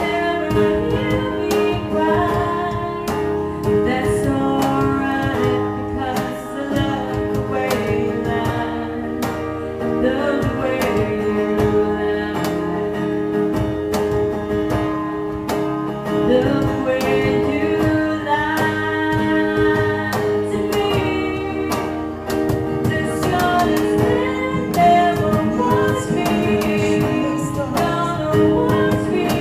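Acoustic guitar played live with voices singing over it.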